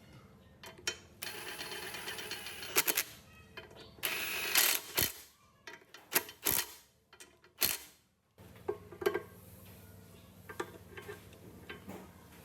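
Workshop handling noises from work on a metal machine: scattered sharp metallic clicks and knocks, with two stretches of rubbing noise lasting a second or two. The sound drops out suddenly a little past the middle, then comes back quieter with a faint hum and light clicks.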